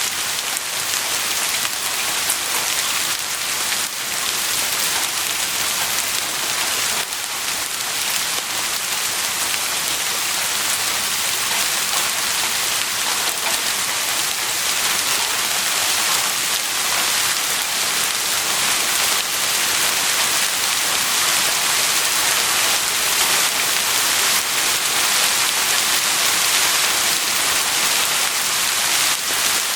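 Heavy rain falling steadily, a dense even hiss of drops on surfaces with the odd distinct drop standing out.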